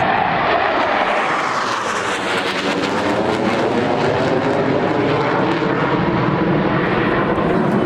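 Aircraft flying past low, a loud steady engine roar whose pitch falls in the first second or so.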